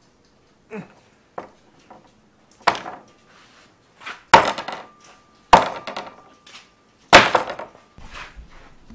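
Knife blade chopping down on a fishing rod: about six hard strikes, the last three loudest, with a ringing tone lingering after them.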